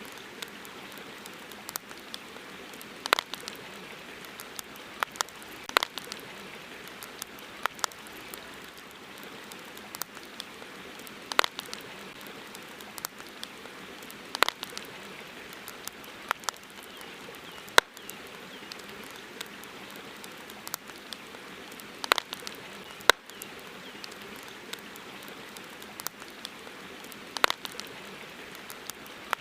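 Campfire crackling, with sharp irregular pops every second or so over a steady hiss of running river water.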